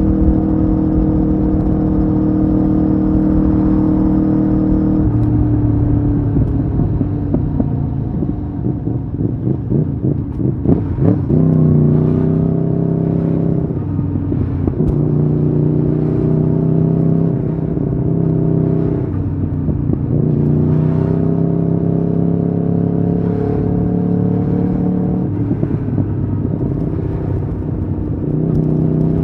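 Aprilia Tuono V4R's V4 engine heard onboard while riding, running hard. After a ragged, uneven stretch about a third of the way in, the note climbs gently and then drops abruptly three times as the rider shifts up through the gears.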